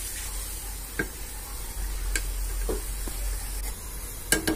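A metal spatula stirs a masala of onion, garlic and ground spices frying in oil in a karahi, with a steady sizzle. A few sharp clinks sound as the spatula strikes the pan, the loudest near the end.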